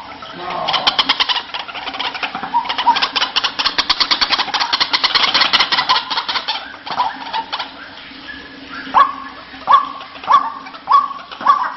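White-breasted waterhen (ruak-ruak) calling: a fast chattering run of rapid pulses for several seconds, then from about nine seconds in a string of loud upward-swooping notes repeated roughly every half second.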